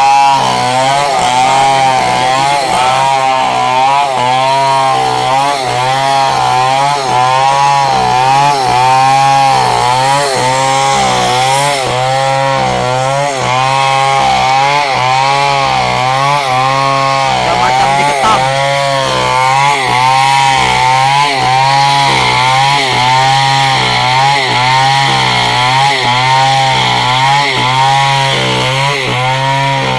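Two-stroke chainsaw running under load as it rips lengthwise through a wooden beam, its engine pitch rising and falling about once a second as the chain bites into the cut.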